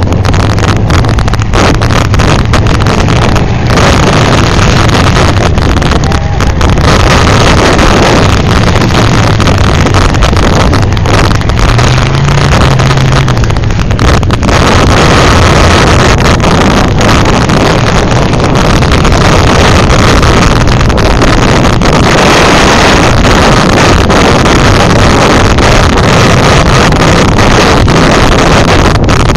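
Demolition derby car engines running and revving in the arena, loud and distorted, with one engine briefly revving higher partway through. Heavy wind buffets the microphone throughout.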